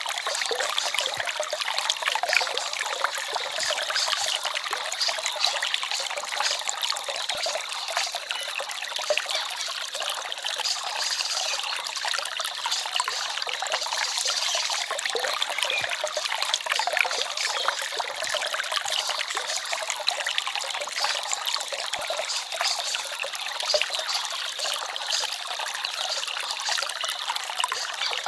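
Small forest stream trickling and babbling, a steady rush of running water with fine splashes.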